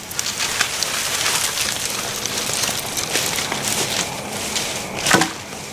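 Dry branches and twigs rustling and crackling, with many small snaps and one louder crack about five seconds in.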